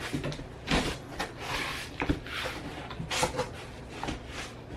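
A cardboard shipping box being opened and its packaging handled: irregular rustles, scrapes and light knocks.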